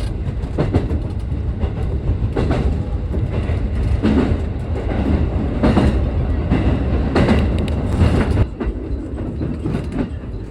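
Train running noise heard from inside a passenger car: a steady low rumble of wheels on rail with a clack from the rail joints every second or two. The rumble eases somewhat about eight and a half seconds in.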